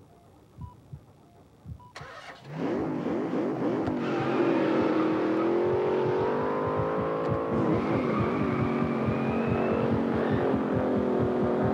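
Soft, regular heartbeat thumps like an ultrasound monitor's, then about two and a half seconds in a car engine revs up and keeps running loud, its pitch wavering.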